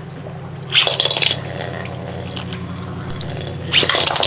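Beyblade spinning tops launched into the stadium and battling: a sharp loud burst about a second in, steady spinning in between, and a second loud clash near the end as one top is knocked out.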